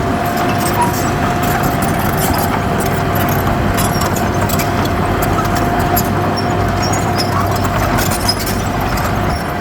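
Heavy diesel earthmoving machinery running steadily under load, with a constant whine held over the engine's rumble.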